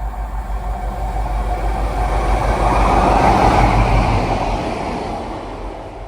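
A train passing at speed on the line, its roar building to a peak about three seconds in and then fading away.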